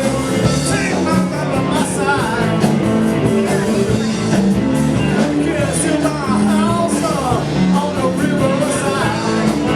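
Blues band playing live: guitar and rhythm section, with a voice singing.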